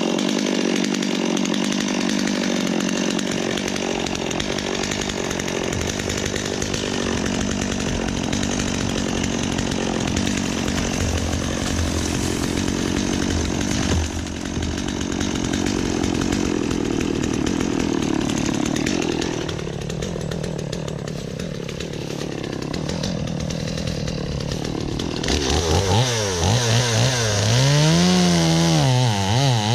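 Gas chainsaw cutting into a tree trunk, running steadily under load. About 25 seconds in it gets louder, and its engine note rises and falls over and over.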